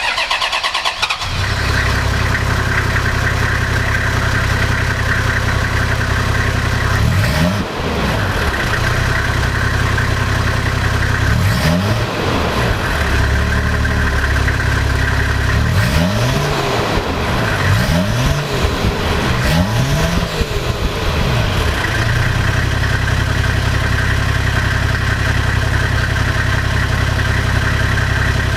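Toyota Land Cruiser 70-series engine and exhaust running at idle just after starting, then blipped about six times in quick succession through the middle, each rev rising and falling, before settling back to a steady idle.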